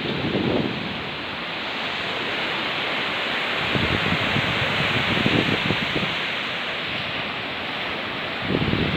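Steady rush of water where a small waterfall and stream pour into the sea, with wind buffeting the microphone in low gusts about half a second in, midway and again near the end.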